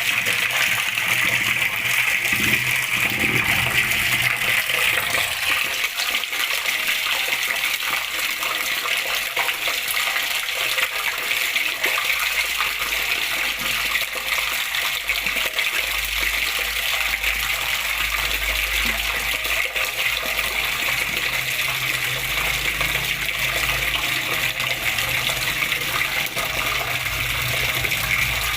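Water flowing and splashing steadily, with a low rumble underneath from about twelve seconds in.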